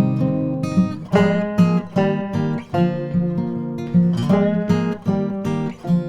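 Background music: acoustic guitar strumming and plucking chords at a steady pace.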